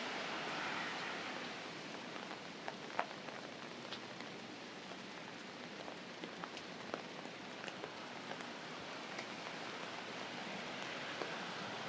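Steady rain falling on an umbrella held overhead, with scattered single drops tapping sharply.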